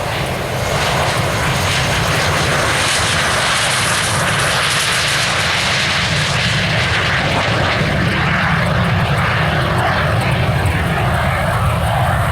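F/A-18 Super Hornet's twin General Electric F414 turbofan engines running at taxi power after landing. It is a steady jet roar with a high hissing whine that swells about a second in and stays loud throughout.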